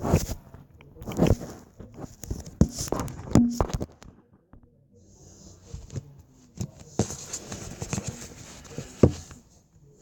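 Slime being squished and stretched by hand, making irregular wet clicks, pops and crackles, busier in the second half.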